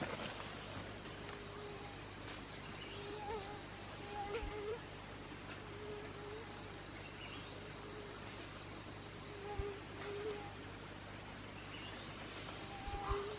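Insect, likely a cricket, trilling in one steady high-pitched note, with faint short low calls now and then.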